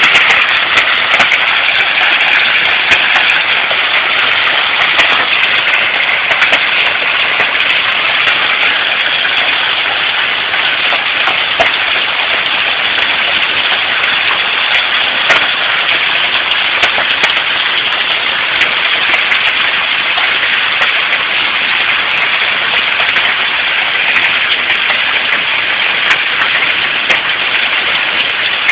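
Hail falling in a heavy thunderstorm downpour: a steady loud roar of rain with many sharp ticks of hailstones striking.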